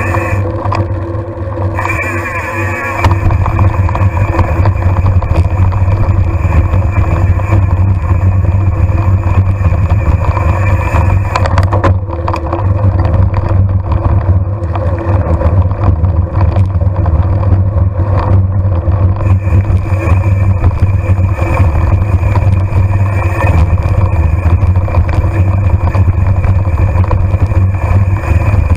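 A motor engine running steadily at a constant speed. It gets louder about three seconds in.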